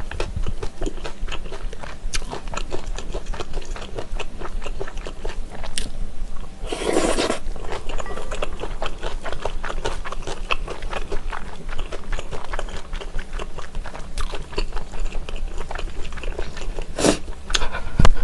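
Close-miked eating of Chinese glass noodles in mala Buldak sauce: continuous chewing with many small mouth clicks. There is one louder, longer noisy sound about seven seconds in and sharp clicks near the end.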